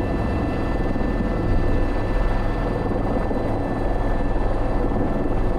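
Airbus H125 helicopter heard from the cockpit: steady rotor and single-turbine running noise, a low rumble with a thin high whine over it.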